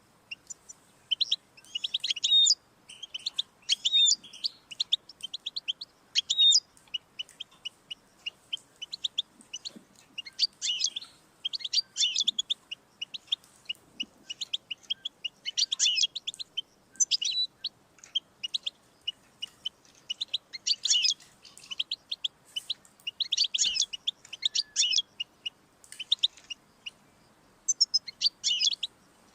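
European goldfinch singing: fast, high-pitched twittering phrases of quick notes, separated by short pauses.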